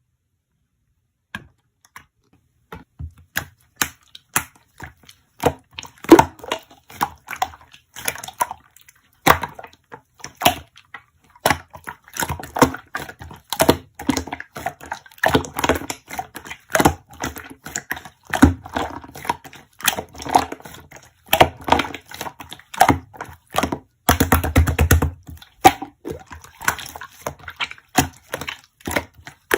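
Slime being squeezed and poked by hand, making a run of irregular clicks and pops that starts about a second and a half in, with a denser burst of crackling squishes near the end.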